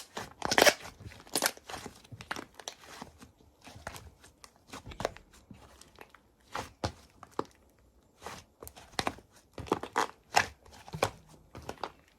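Slime being squeezed and poked by hand, giving an irregular run of sharp sticky pops and crackles. The loudest pops come in the first second or two.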